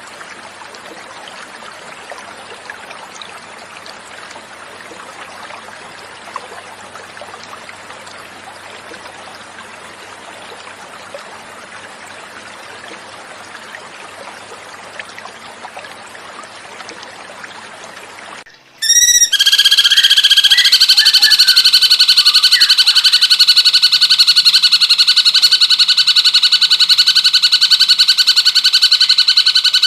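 Flowing water, a steady hiss, for about eighteen seconds. Then a recorded cucak cungkok starts a loud, very rapid trilling song, a fast run of repeated notes at a steady pitch, which runs on through the rest.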